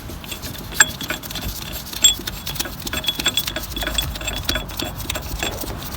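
Brake piston rewind tool being fitted into a front brake caliper and worked: light metallic clicks and ticks, with a sharper knock about a second in and another about two seconds in, then a run of quick small ticks.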